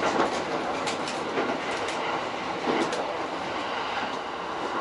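E231 series electric commuter train running at speed, with a steady rumble of wheels on rail and a few sharp clacks as the wheels cross rail joints, heard inside the front car.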